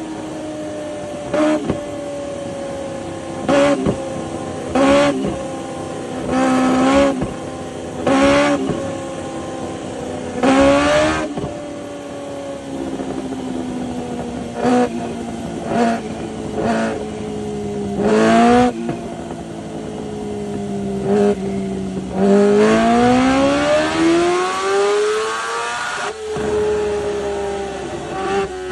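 Kawasaki H2R's supercharged inline-four engine idling, blipped with about a dozen short, sharp stabs of throttle. Near the end comes one longer rev, climbing for about four seconds before it drops back to idle.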